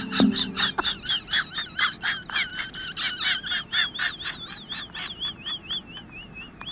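Rapid high-pitched, bird-like chirping, about five chirps a second, with wavering whistled notes joining in the second half; it cuts off suddenly near the end.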